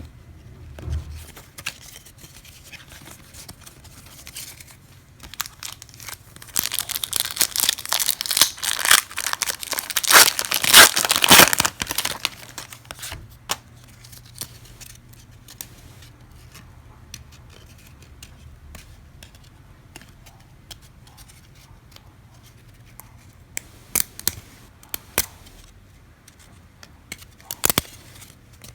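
A trading-card pack's wrapper being torn open and crinkled for about five seconds, from about six seconds in, then quiet handling with a few light clicks.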